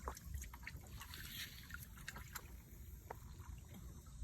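Faint trickling and lapping of shallow lake water, with scattered small clicks and splashes.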